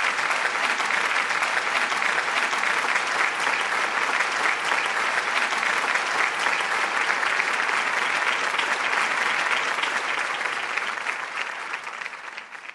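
Audience applause: a dense, steady clapping from many hands that fades away over the last couple of seconds.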